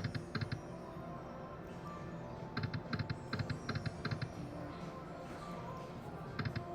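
Electronic poker machine sound effects: a steady electronic tune with a quick run of evenly spaced clicks, about nine a second, about two and a half seconds in, as the reels spin and the credits tick.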